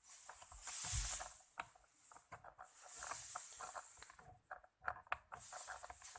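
Mini sewing machine's mechanism being turned slowly by hand: many small irregular clicks and ticks with some rustling, as the hook goes round to catch the bobbin thread.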